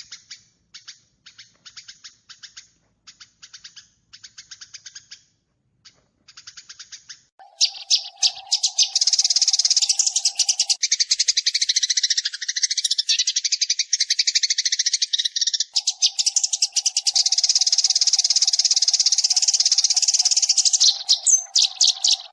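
Recorded sparrow chirps played as a trapping lure. For the first seven seconds there are soft, quick chirps in short groups. Then comes a much louder, dense chattering of many rapid chirps, which stops abruptly at the end.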